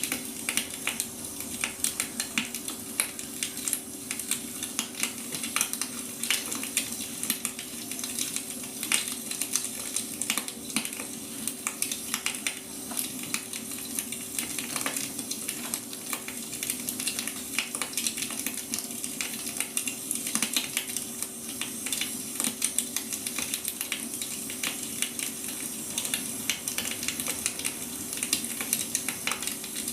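Wood fire crackling: many small, irregular snaps and pops over a steady hiss of burning logs, with a faint steady hum underneath.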